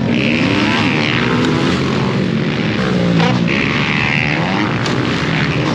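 Several small dirt bike engines revving as they race around the track, their pitches rising and falling and overlapping, with higher-pitched engine notes coming louder twice.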